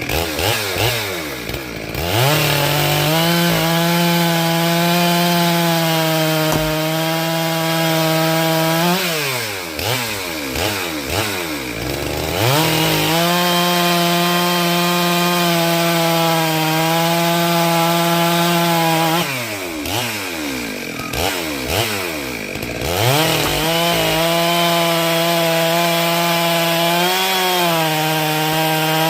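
Chainsaw running at high speed cutting firewood logs, letting off and dropping toward idle, then revving back up, three times: at the start, about ten seconds in and about twenty seconds in.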